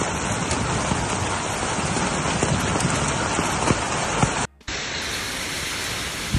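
Heavy rain falling steadily. The sound drops out for a moment about four and a half seconds in, then resumes.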